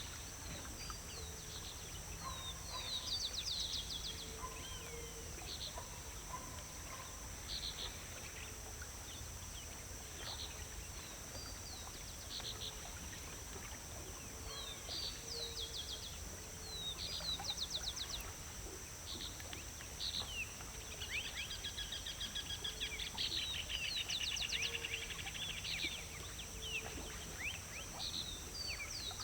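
Small songbirds chirping and calling repeatedly with short high notes, with a longer run of rapid trills about two-thirds of the way through, over a steady high-pitched background tone and low rumble.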